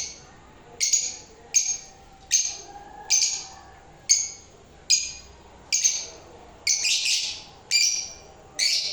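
Pet lovebirds calling with sharp, shrill chirps, about one a second in an even run, with a longer burst of calls a little past the middle.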